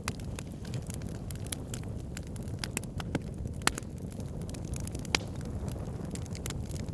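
Wood fire burning in a fireplace: a steady low rumble of flames with irregular sharp crackles and pops, the loudest pops a little over three and a half seconds in and about five seconds in.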